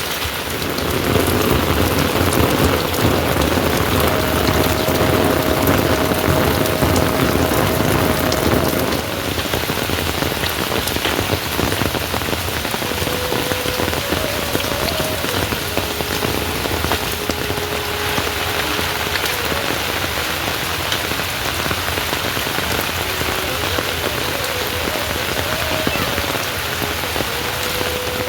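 Steady heavy rain falling, a fuller, louder downpour for the first nine seconds or so, then a slightly lighter steady rush. Faint held tones come and go underneath.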